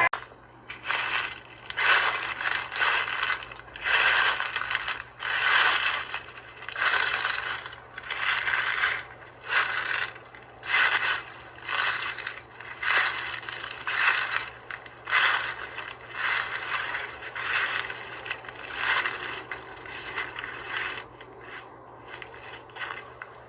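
Repeated scraping, crunching strokes, a little under one a second, evenly paced and dying away near the end.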